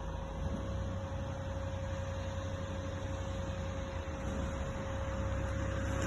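A steady mechanical hum: a low rumble with one steady tone above it.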